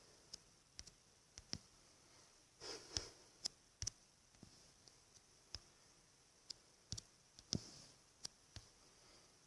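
Faint, irregular taps and clicks of a finger on a smartphone touchscreen, about fifteen in all, with a couple of soft sniffs or breaths between them.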